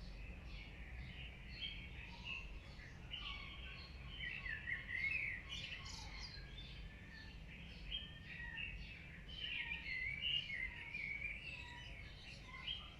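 Many birds chirping and calling at once in a dense, continuous chorus, over a low steady rumble.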